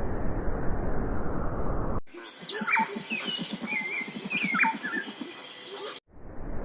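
A dense low rumbling noise that cuts off abruptly about two seconds in, giving way to birds chirping and calling over a low, rapid pulsing of about six beats a second. The rumble cuts back in abruptly near the end.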